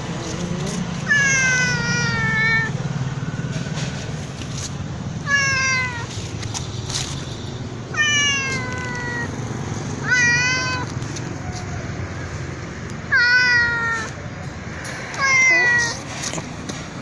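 Domestic cat meowing loudly and repeatedly: six long meows, one every two to three seconds, each sliding down in pitch.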